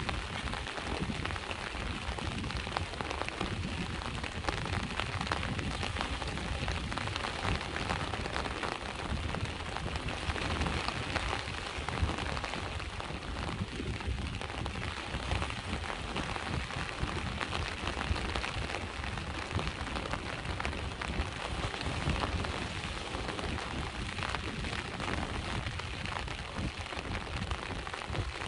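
Steady rain falling, a dense pattering hiss, over the low continuous rumble of sea waves on the shore.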